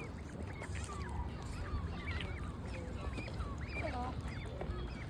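A brood of young waterfowl chicks peeping: many short, high, overlapping chirps that bend up and down, with a few lower calls about four seconds in, over a steady low rumble.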